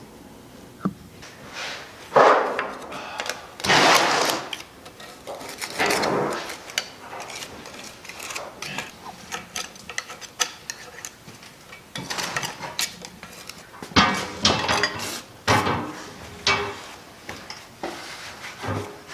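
Irregular clanks, knocks and scraping of hand work on machinery during servicing, coming in short bursts with no steady running engine.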